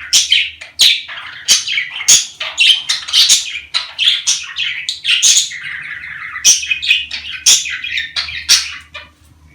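Budgerigars chattering and warbling in a fast, unbroken run of chirps, squawks and sharp clicks, the budgie song played to bring budgies into breeding condition. It dies away near the end.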